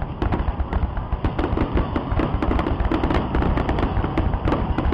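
Fireworks exploding in a rapid, continuous string of bangs and crackles, several a second over a steady low rumble.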